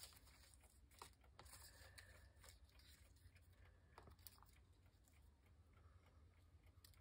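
Very faint, scattered rustles and light taps of paper pieces being handled and sorted, over a low steady background hum.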